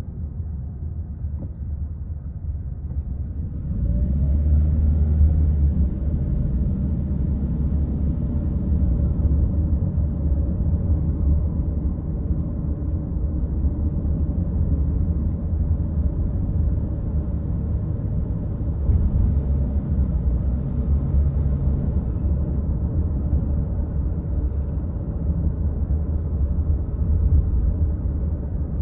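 A car driving: a steady low rumble of road and engine noise, which gets louder about four seconds in.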